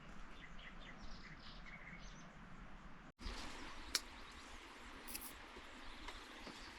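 Faint outdoor ambience with small bird chirps. The background changes abruptly about three seconds in, and a single sharp click comes about a second after that.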